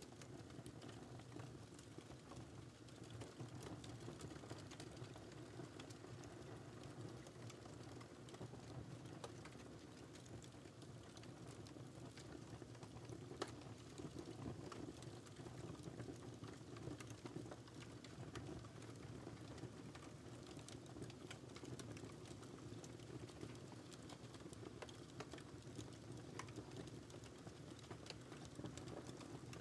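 Wood fire crackling in a fireplace: a faint steady low rustle of the flames with frequent small pops and snaps, one sharper pop about halfway through.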